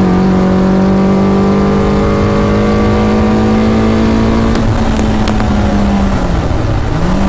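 Caterham R400's four-cylinder engine heard from inside the open cockpit, running hard at high revs on track. Its note climbs slowly, then dips and picks back up near the end, over a rough wind rumble.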